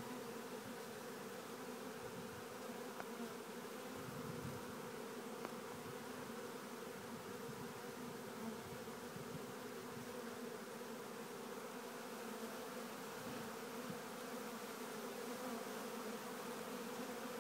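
Swarm of honeybees buzzing, a steady hum from the mass of bees clustered in twigs as they are gathered into a box.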